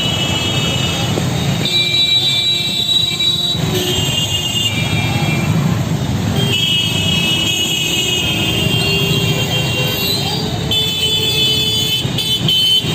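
Road traffic in a jam, with vehicle horns honking in several long blasts over a steady rumble of engines.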